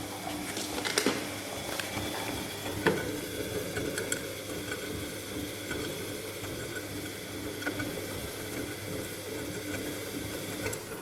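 Bosch MAXX 6 front-loading washing machine in its boil-wash program: the drum turns with a steady motor hum while the laundry and water slosh inside, with a few sharp clicks, the loudest about 3 s in.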